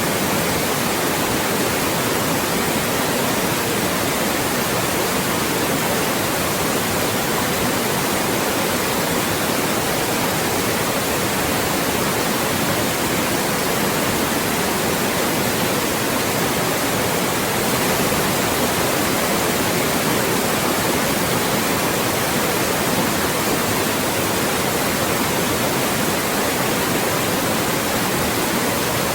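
Loud, steady white noise: an even hiss across all pitches with no change, generated as a speech-masking sound.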